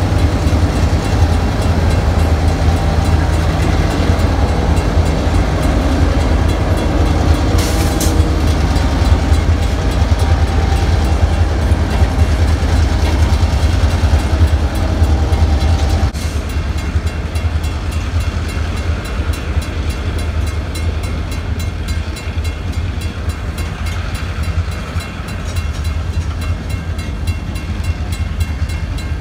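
Diesel-hauled freight train passing a grade crossing. Deep locomotive engine hum and rumble go by for about the first half, then stop, leaving the steady rolling noise of freight cars on the rails. The crossing's warning bell ticks evenly throughout.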